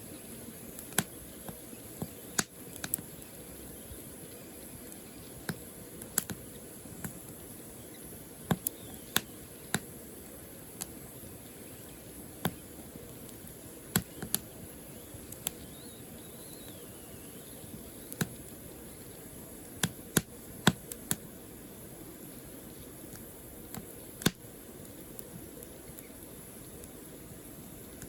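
Burning firewood crackling: sharp, irregular pops and snaps, roughly one a second, over a steady low hiss of the fire.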